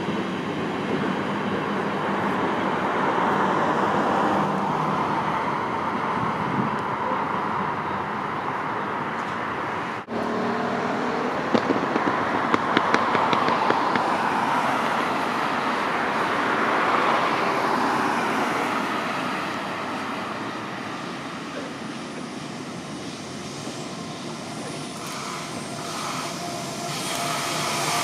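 Train running on the tracks, a steady rush of wheel and rail noise. The sound cuts off abruptly about ten seconds in, then a quick run of sharp clicks follows. It eases off for a while and swells again near the end.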